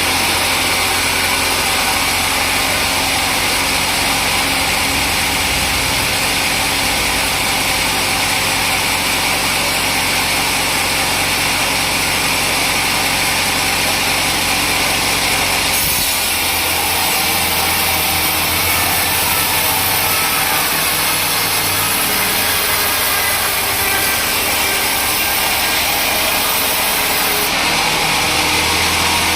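Sawmill saw running steadily while cutting timber. About halfway through the sound changes and a higher hiss joins, dropping away shortly before the end.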